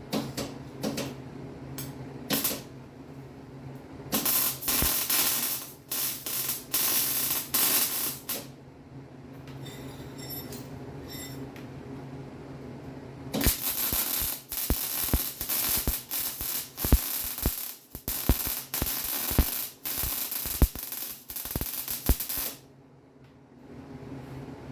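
Arc welding on a steel Jeep frame cross member: crackling weld runs in two long stretches, the first a few seconds in and broken into short bursts, the second longer and steadier, with a few single clicks before them.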